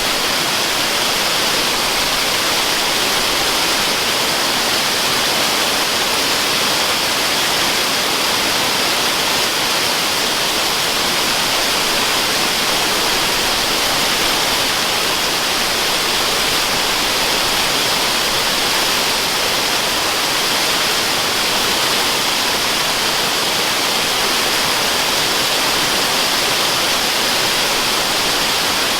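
Waterfall rushing without pause, an even, unchanging hiss that is strongest in the upper range with little low rumble, used as white noise.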